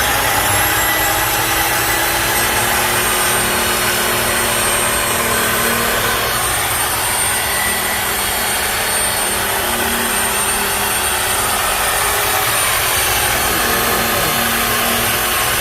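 Handheld power cutting tool cutting steadily through steel exhaust tubing, one continuous cut with a high whine over a loud hiss.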